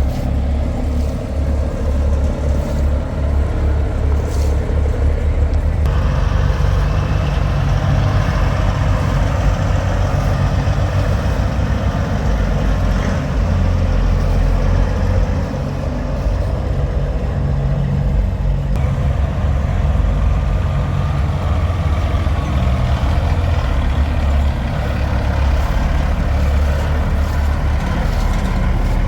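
Heavy diesel truck engine running, a deep steady rumble that grows fuller and louder from about six seconds in until nearly two-thirds through, then settles back.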